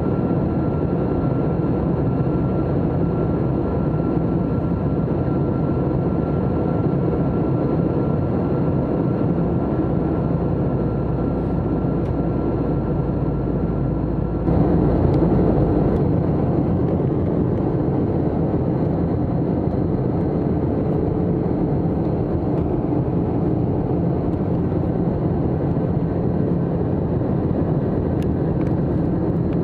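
Airbus A321-200 airliner heard from inside the cabin: steady jet engine and airflow noise with a few faint steady tones. The sound changes abruptly about halfway through, briefly growing louder and fuller.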